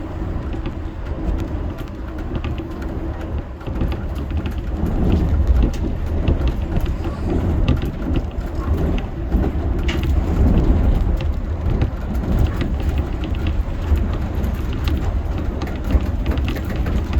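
A Shonan Monorail 5000-series suspended monorail car running between stations, heard from inside the car: a steady low rumble with many small clicks and crackles over it.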